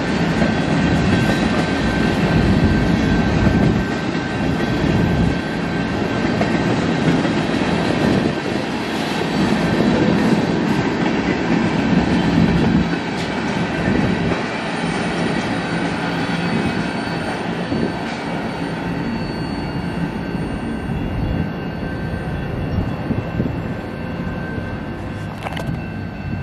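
Freight cars of a Canadian National freight train, covered hoppers and tank cars, rolling past: a steady rumble and clatter of steel wheels on the rails, with faint steady high-pitched ringing. The sound eases off a little near the end as the last cars go by.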